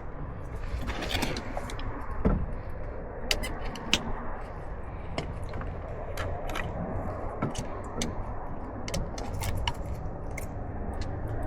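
Scattered light clicks, clinks and scrapes of parts and tools being handled under a van's hood, over a steady low rumble.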